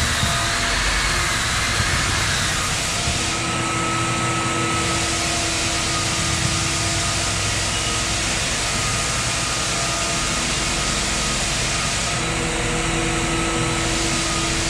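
Electric floor sander running steadily as it sands a hardwood floor, a continuous motor and abrasive noise with faint tones that come and go.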